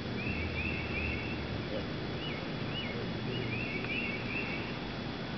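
A bird singing: a quick run of short chirps, two separate up-and-down notes, then another run of chirps, over a steady outdoor hiss and low rumble.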